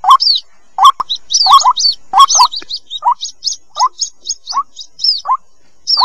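White-breasted waterhen chicks calling: short, bending chirps repeated several times a second, in a lower and a higher pitch. This is the chick call that trappers play to lure waterhens.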